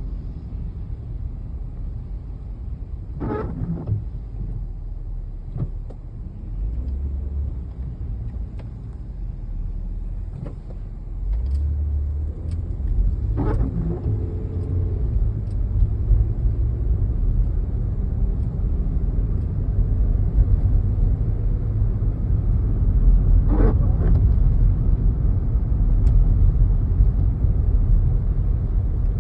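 Low rumble of a moving car, getting louder through the second half, with a few brief sharper sounds breaking through.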